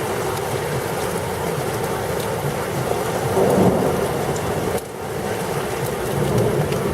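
Heavy thunderstorm rain pouring steadily, with a low thunder rumble under it that swells about halfway through; the sound dips briefly about two-thirds of the way in.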